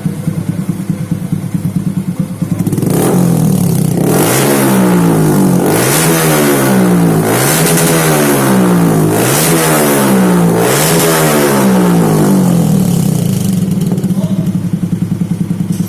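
Yamaha MX King motorcycle engine through an R9 aftermarket exhaust, with its CO fuel-mixture trim set to +15. It idles, then is revved up and let back down several times in a row before settling back to idle near the end.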